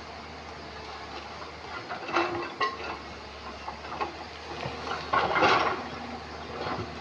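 Excavator at work among river stones: the engine runs steadily under two bouts of the steel bucket scraping and knocking against rock, about two seconds in and again about five seconds in, the second louder and with a squeal.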